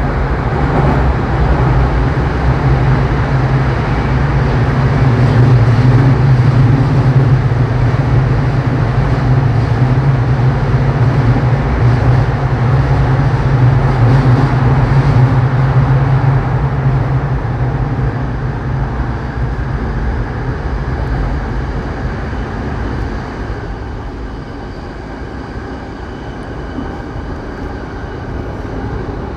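JR Saikyō Line electric commuter train running between stations, heard from inside the car. A strong steady low drone under the rail and running noise fades away about two-thirds of the way through, and the train sounds quieter after that.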